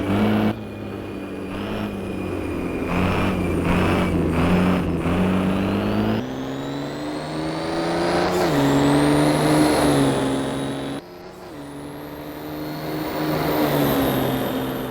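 Formula Truck racing truck's turbo-diesel engine running hard. Its pitch shifts in steps several times, and high whines rise slowly under the engine note.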